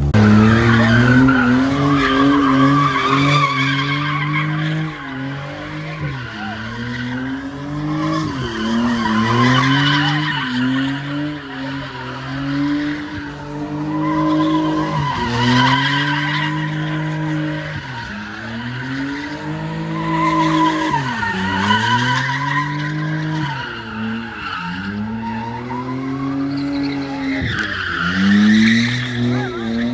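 Car engine revving up and down over and over, about every two to three seconds, with the tyres squealing in a long skid.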